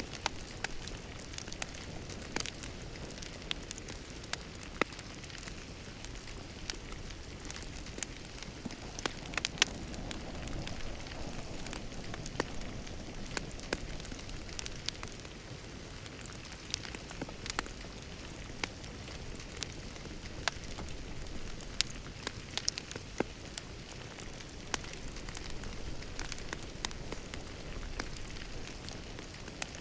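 Wood fire crackling in a fireplace: a steady rush with frequent, irregular sharp pops and snaps.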